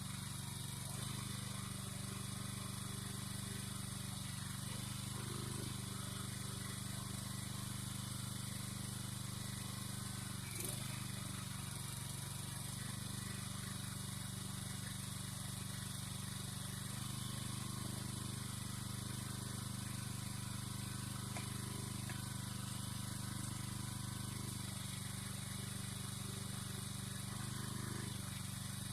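Small engine running steadily, its pitch shifting slightly a few times as the load changes, with one brief knock about ten seconds in.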